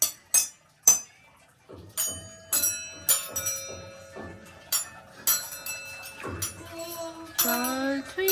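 Cups and glasses struck one at a time as a makeshift instrument: about a dozen uneven clinking strikes, several leaving clear ringing tones that hang on for a second or more. A voice comes in near the end.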